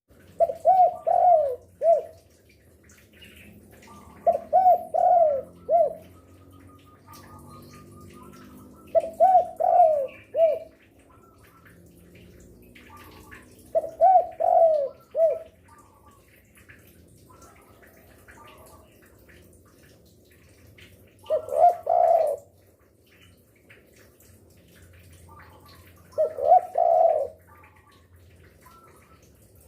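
Spotted dove (derkuku) cooing: six phrases of three or four coos each, several seconds apart. Faint higher chirps sound in the gaps.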